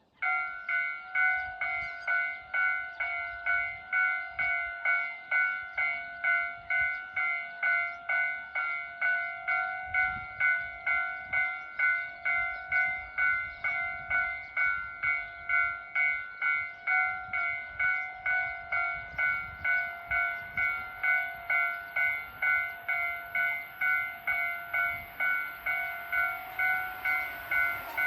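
Japanese railway level-crossing alarm ringing with its electronic bell, an even clang of about two strokes a second, warning of an approaching train. Near the end the rush of the train starts to come in under it.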